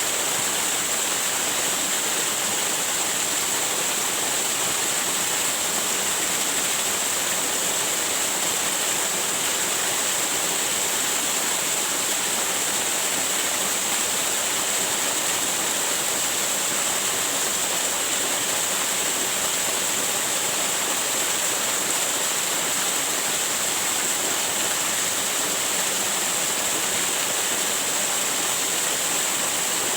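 Waterfall: a steady, unbroken rush of falling water with a strong hiss.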